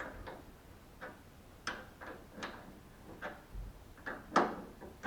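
Wrench tightening the 13 mm bolt of a car door hinge pin: a series of separate sharp metallic clicks, roughly one every half to three-quarters of a second, the loudest a little past four seconds in.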